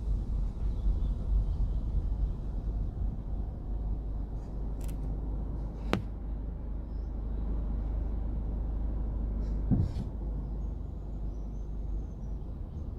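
Steady low rumble of a car driving slowly, heard from inside the cabin, with a sharp click about six seconds in and a short thump near ten seconds.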